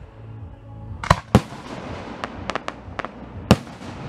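Fireworks display: three loud bangs of bursting shells, two in quick succession about a second in and one near the end, with a handful of lighter sharp cracks between them. Music plays underneath.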